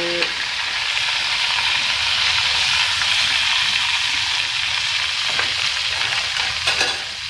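Tempe slices deep-frying in hot oil in a frying pan: a steady sizzle and crackle, with a few sharp clicks near the end.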